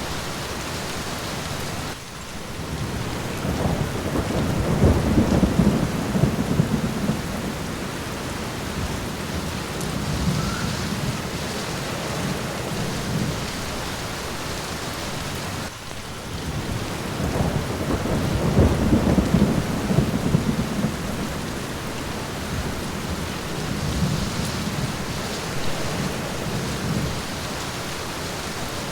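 Steady rain falling with rolling thunder. The thunder rumbles up strongly twice, about four to eight seconds in and again about sixteen to twenty-one seconds in, with fainter rumbles in between.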